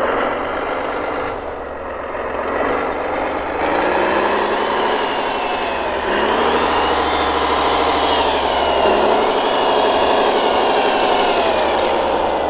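Scale RC model construction vehicle running, its motor whine rising in pitch a few seconds in and falling again near the end, over a steady low hum.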